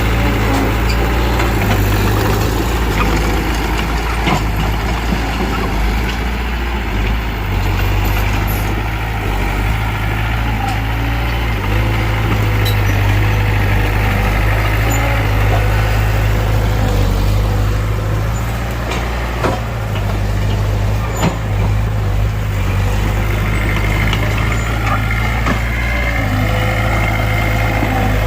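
Heavy diesel engine running steadily with a deep rumble, with a few short clanks and knocks over it.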